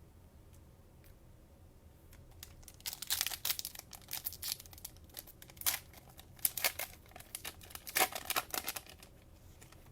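Cellophane wrapper of a trading-card cello pack being torn open and crinkled in the hands: irregular bursts of sharp crackling starting about three seconds in and continuing until near the end.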